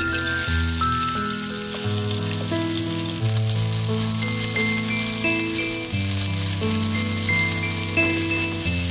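Plum slices and strawberry pieces sizzling in olive oil in a non-stick frying pan; the sizzle starts as the fruit goes in. Background music with a steady melody plays under it.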